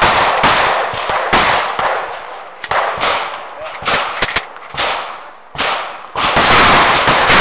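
Shotgun shots fired in a rapid, irregular string, often two or three in quick succession. There is a brief gap around 5.5 to 6 s, then a faster, denser run of shots near the end.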